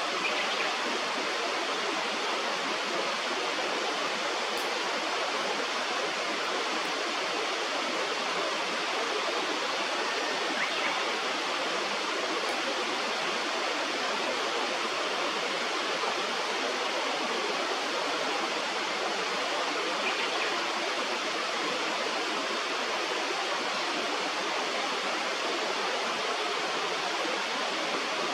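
Steady rush of flowing river water, an even unbroken hiss with no rhythm or change.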